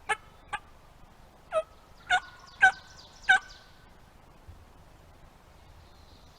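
A series of six short, sharp turkey yelps, mostly growing louder, in the first three and a half seconds.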